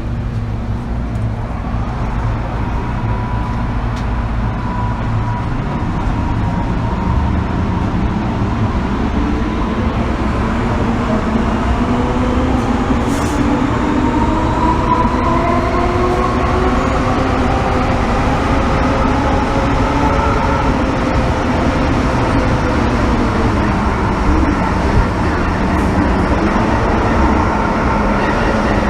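MTR M-Train electric multiple unit heard from inside the car as it pulls away. Over a low rumble, the traction motors' whine of several tones starts climbing in pitch about a third of the way in and keeps rising, growing slightly louder as the train gathers speed.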